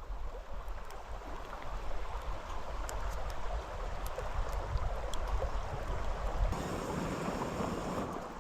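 Mountain stream rushing steadily, with wind rumbling on the microphone that eases off about six and a half seconds in.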